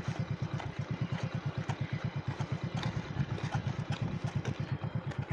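Motorcycle engine idling nearby: a steady, even low chugging of about seven beats a second.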